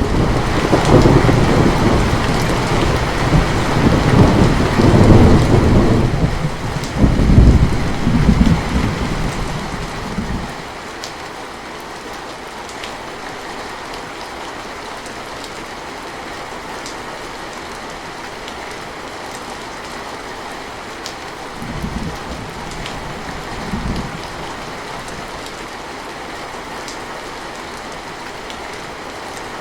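Steady rain with a loud roll of thunder that rumbles for the first ten seconds or so, swelling twice before fading out. Later the rain goes on evenly, with two short, fainter rumbles of thunder near the end.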